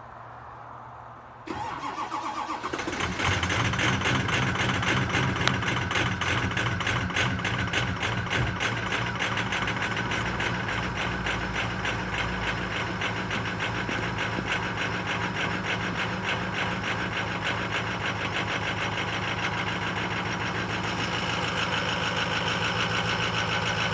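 Ford 6.0 Power Stroke V8 turbo diesel cold-started: about a second and a half in the aftermarket high-torque gear-reduction starter cranks it briefly. The engine catches within a second or two and settles into a steady cold idle with diesel clatter.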